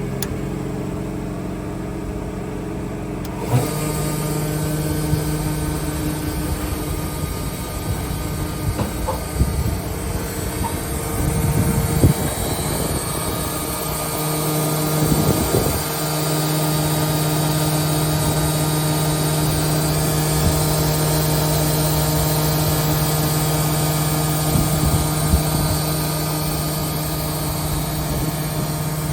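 Altendorf F-90 sliding panel saw running with its blades spinning: a steady motor hum that gets louder and hissier about three and a half seconds in, with a few brief louder noises around twelve and fifteen seconds in.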